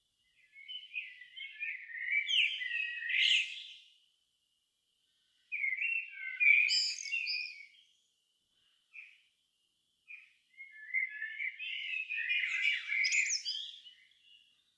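A songbird singing three separate warbled phrases, each two to three seconds long, with short pauses between them.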